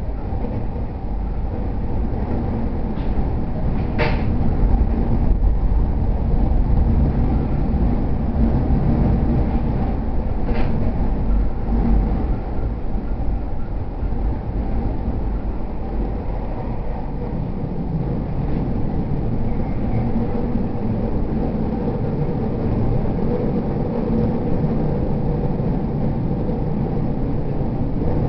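Running noise of a JR E231-series 0 electric commuter train heard from inside the car while under way: a steady rumble of wheels on the rails and running gear. A sharp click about four seconds in, and another near eleven seconds.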